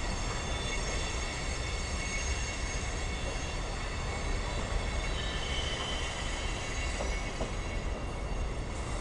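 A freight train's hopper cars and boxcars rolling past at speed, a steady rumble of wheels on rail. A thin high wheel squeal rides over it and grows a little stronger about halfway through.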